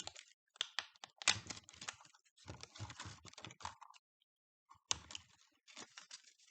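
Irregular clicks, taps and scraping of hard plastic as a part is pried and pulled off an opened 80-volt battery pack, with a pause of about a second midway.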